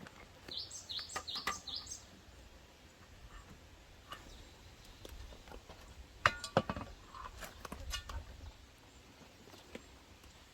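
A wild bird sings a quick run of about five high, curved notes in the first two seconds. Later come a few sharp clinks and knocks, the loudest with a brief ringing, over a low steady rumble.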